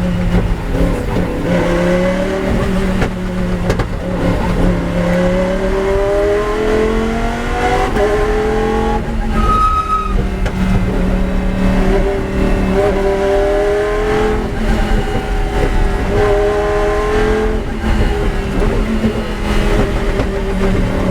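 Lamborghini Huracán GT race car's V10 engine under hard acceleration on track, its pitch climbing and then dropping at each gear change several times over, with a short lift about nine to ten seconds in.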